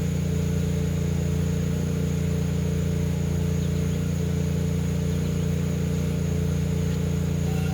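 An engine running steadily at a constant speed, giving an even low hum that does not change in level.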